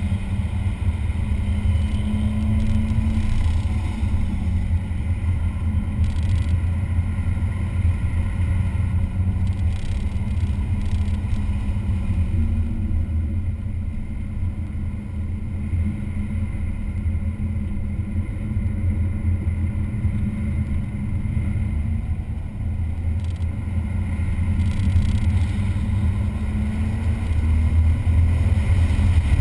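Race-track vehicle engine at speed, heard continuously with a deep drone. Its engine note drifts up and down as it accelerates and lifts through the corners.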